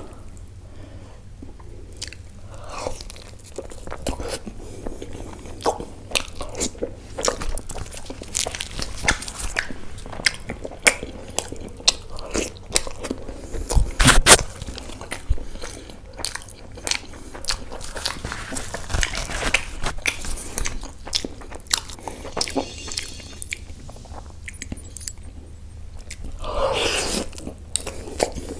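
Close-miked eating: a person biting and chewing mouthfuls of lachha paratha dipped in butter chicken gravy, with a steady string of sharp mouth clicks and smacks. The loudest click comes about halfway through.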